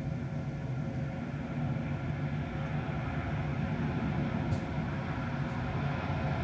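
Jet airliner engines running: a steady low rumble with several faint steady whining tones above it.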